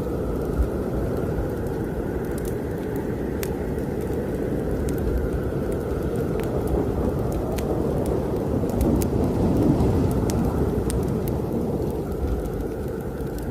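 Strong blizzard wind blowing in a steady low rush that swells a little past the middle, with the scattered sharp crackles and pops of a wood fire in a fireplace over it.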